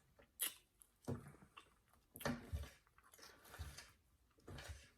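A person chewing a mouthful of steak and eggs close to the microphone, with a few irregular wet mouth smacks.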